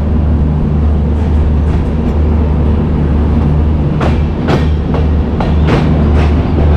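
Benapole Express passenger train with LHB coaches running: a steady low rumble, with the wheels clicking over rail joints several times in the second half.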